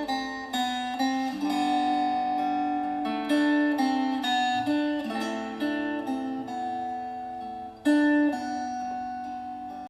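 Instrumental close of the song with no singing: guitar notes plucked one after another and left ringing, with one louder note about eight seconds in, then dying away.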